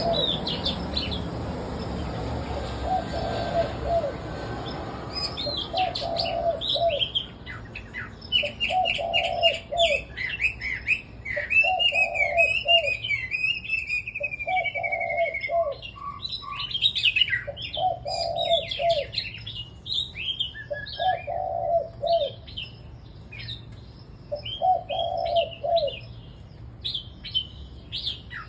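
Several caged red-whiskered bulbuls singing: quick, varied chirps and warbling phrases, thickest from about five seconds in. Underneath, a lower call repeats about every two and a half seconds.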